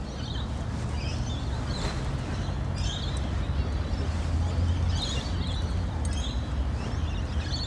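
Faint, scattered wild bird calls, short high chirps every second or so, over a steady low rumble.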